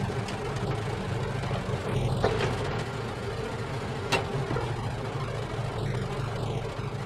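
A motor running steadily with a low hum, with two sharp clicks about two and four seconds in.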